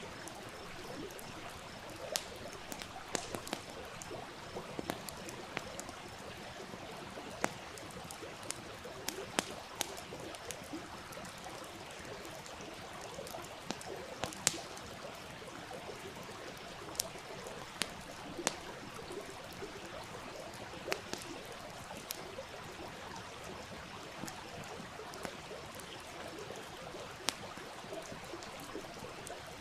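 Wood campfire crackling, with sharp irregular pops and snaps, over the steady rushing burble of a small stream.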